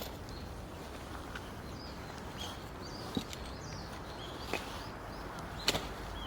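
Faint, high chirps of small birds over steady outdoor background noise, with three sharp clicks in the second half.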